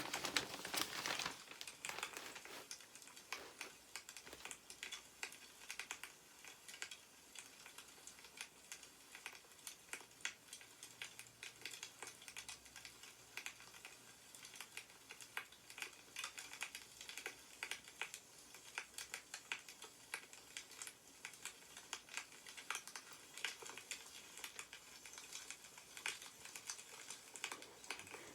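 Burning firewood crackling with many irregular small sharp pops, with paper rustling at the start.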